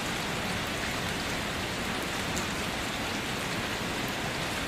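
Steady rain falling: an even, constant hiss with faint scattered drop ticks.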